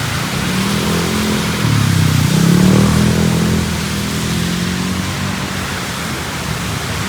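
A motor vehicle's engine passing close by on a wet street, swelling to its loudest about two to three seconds in and then fading, over a steady hiss of rain and traffic.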